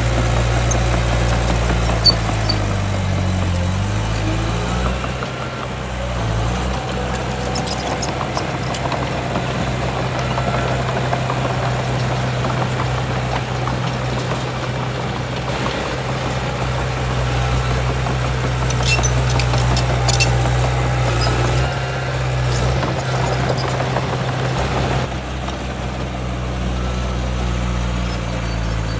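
Heavy diesel engine of earthmoving machinery running steadily, its pitch dipping and rising briefly a few seconds in. A cluster of sharp clicks and clanks comes about two-thirds of the way through.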